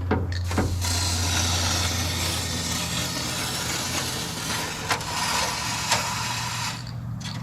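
Aerosol spray can hissing in one long continuous spray of about six seconds as coating is shot into the seams and inside cavities of a car hood panel, with a few light clicks and a steady low hum underneath.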